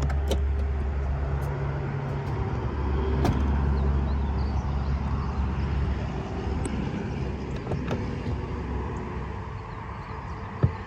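A BMW M4 Competition's twin-turbo inline-six idling with a steady low hum that weakens after about six seconds. A few light clicks sound through it, and a sharp knock comes near the end.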